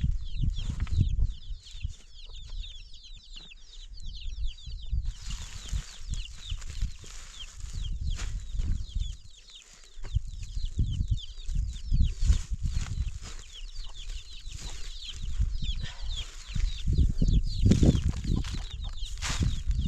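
Chickens clucking with a dense run of high chirps and peeps, over intermittent low rumbling.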